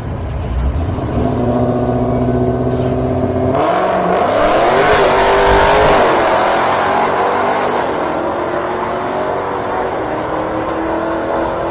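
Drag racing cars' engines running steadily at the line. About three and a half seconds in they launch hard, revving loudly and climbing in pitch as they pull away, then die back to a steadier drone.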